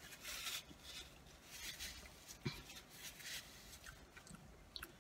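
Faint chewing of cheesy curly fries, with a few short, soft rustles of a paper napkin in the hand.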